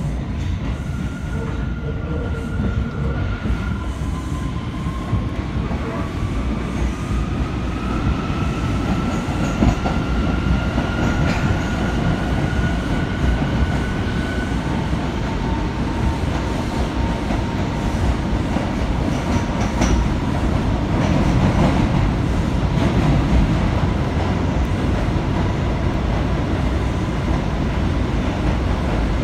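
New York City subway J train running on the rails: a dense low rumble of wheels on track, with motor whine rising in pitch as the train gathers speed, then holding one steady tone.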